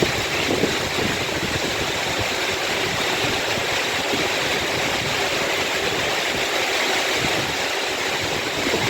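Steady hiss of heavy rain, mixed with the running noise of a London Northwestern Class 350 electric train standing at the platform.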